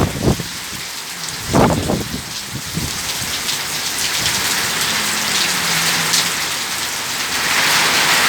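Heavy rain pouring steadily in a thunderstorm, with a couple of short low surges at the start and about one and a half seconds in, and the downpour getting louder near the end.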